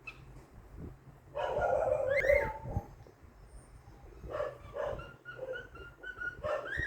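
Cockatiel vocalizing: a loud chattering call with rising squeaks about one and a half to three seconds in, then a run of short chirps and whistled notes.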